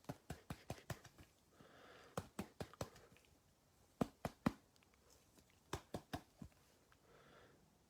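Trading cards being handled and sleeved on a table: light clicks and taps in small quick groups, with faint sliding of card against plastic in between.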